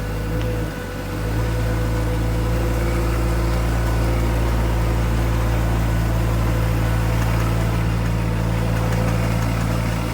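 An engine idling steadily, with a short dip in level about a second in.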